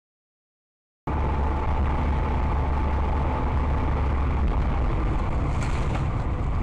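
Steady vehicle driving noise, a deep low rumble of engine and road as picked up by a dashcam, starting abruptly about a second in after dead silence, with a faint steady whine in the first half.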